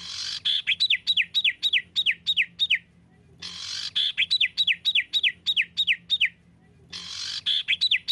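Songbird song from a masteran training recording: a harsh burst followed by a rapid run of about ten clear notes, each sliding downward, at about four notes a second. The phrase repeats three times with short pauses between.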